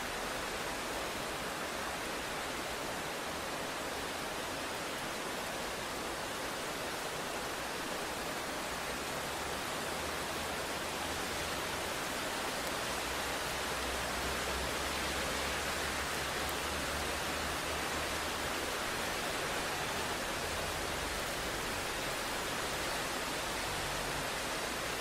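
Steady, even hiss of heavy rain. A long low rumble swells up through the middle and fades again.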